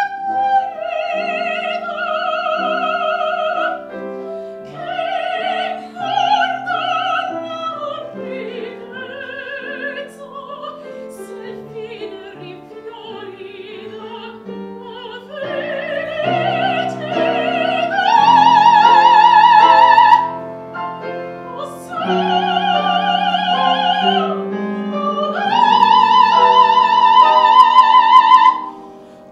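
A high operatic voice singing an aria with wide vibrato, accompanied by piano. It holds long, loud high notes twice in the second half, and the phrase ends just before the close.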